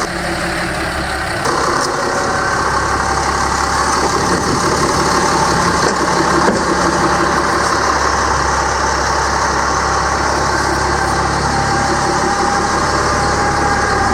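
Caterpillar C7 inline-six turbo diesel engine running steadily, growing a little louder about a second and a half in.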